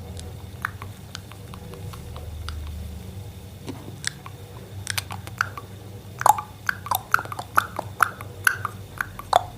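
Ring-necked parakeet chewing and nibbling with its beak: a series of sharp little clicks and crunches, sparse at first and then coming quicker and louder about halfway through, over a steady low hum.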